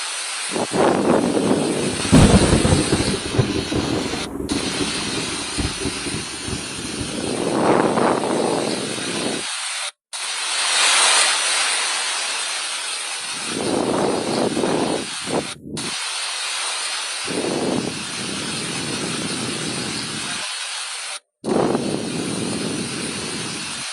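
Steady rushing, hissing outdoor noise in a string of short clips, each cut off abruptly every few seconds.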